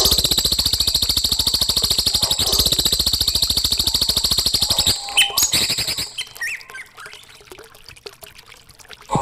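A songbird's long, very rapid chattering trill, many notes a second, holding for about five seconds before stopping, followed by a few quieter scattered chirps and short whistles. It is recorded bird song played as a training track for young birds to copy.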